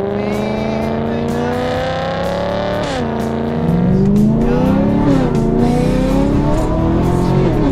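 Supercharged BMW E92 M3's V8 accelerating hard: the revs climb steadily for about three seconds, drop sharply at a gear change, then rise and dip again before another sudden drop near the end.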